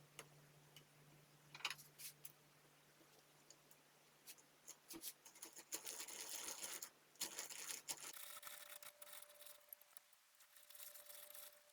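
Faint scraping and rubbing of hand tools working wood, with a few small clicks and taps.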